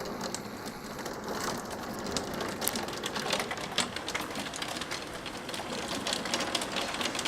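Hailstones and heavy rain pelting down: a dense, rapid clatter of small hard impacts over a steady rush of rain. It gets heavier about a second and a half in.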